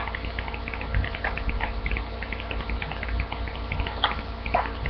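A sheet of paper rustling and crackling in small scattered ticks as it is handled and creased while folding a paper airplane, over a steady low hum.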